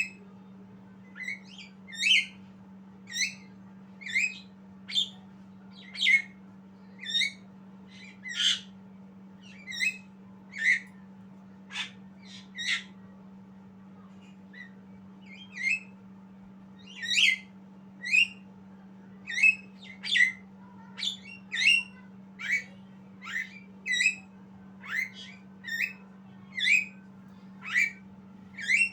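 Javan myna giving short, sharp squawking calls, repeated about once a second with a brief pause partway through, over a steady low hum.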